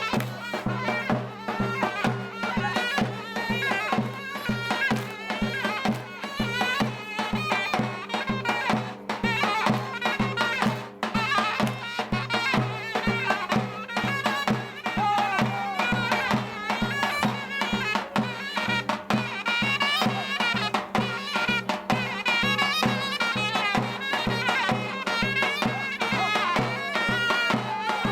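Turkish folk dance music: a shrill reed instrument playing a fast, ornamented melody over a steady bass drum beat.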